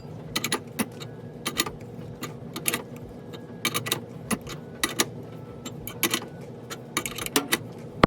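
Irregular sharp metallic clicks and ticks, several a second in small clusters, as a pilot bearing puller is turned to draw a seized, corroded brake caliper piston out of its bore.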